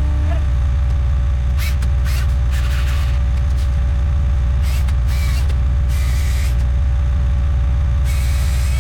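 Heavy machine's diesel engine running steadily at high throttle with a constant whine, broken by several short hissing bursts.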